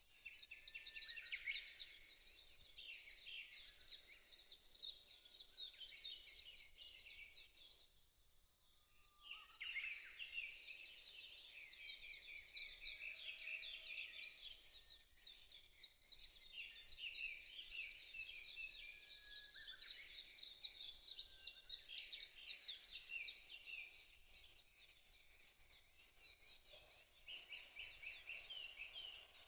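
Many small birds chirping and trilling together in a dense, fast stream of high notes, with a short lull about eight seconds in.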